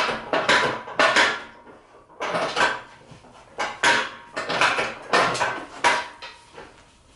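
Metal clanking: about ten sharp metal-on-metal knocks at an uneven pace, each with a brief ring.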